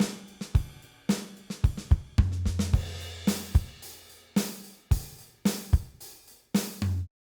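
Song outro played on a drum kit: kick, snare, hi-hat and cymbal strikes with a low bass note held twice, cutting off suddenly near the end.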